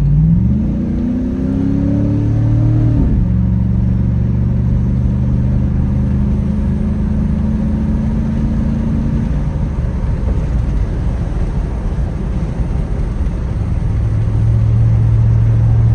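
A 4.8 LS V8 with an exhaust leak pulled hard under acceleration: the engine's pitch rises for about three seconds, drops suddenly at a gear change, then holds steady. About nine seconds in it eases off to a lower, steady cruise.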